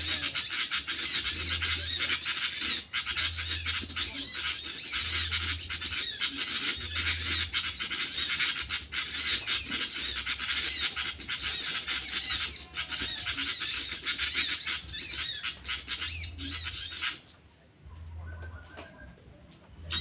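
Rapid, continuous bird chattering: quick repeated arching high notes, one after another. It cuts off abruptly about three seconds before the end, then starts again.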